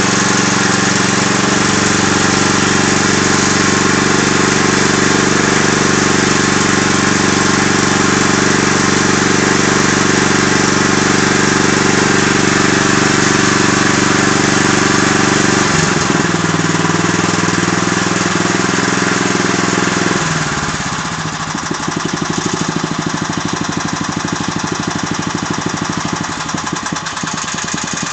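Agros walk-behind tractor's petrol engine running steadily with a knock in it whose cause the owner does not know. About twenty seconds in it drops to a lower speed, and an even, rapid knocking stands out more clearly.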